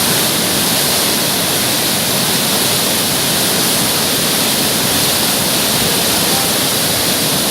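Fast water of the Ganges rushing under high pressure: a loud, steady roar of water without a break.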